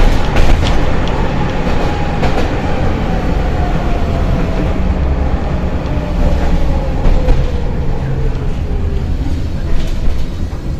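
Tatra tram running on rails: a steady low rumble with a few sharp clicks over the rail joints, and a motor whine that falls steadily in pitch as the tram slows.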